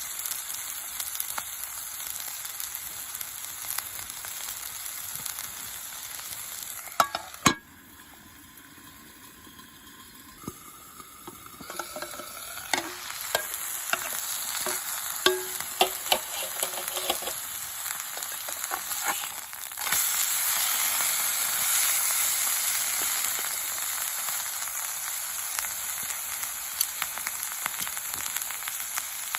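Steak sizzling in a frying pan over a small camp stove. About seven seconds in there are two sharp knocks and the sizzle drops away, then it builds back with scattered pops and turns louder about twenty seconds in.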